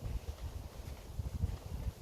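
Footsteps on a woodland path, with wind rumbling on the microphone.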